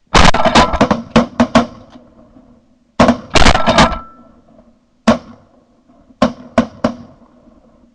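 Volley of shotgun shots from several hunters firing at incoming geese. There is a quick string of about seven shots at the start, then three or four more, a single shot, and a final three.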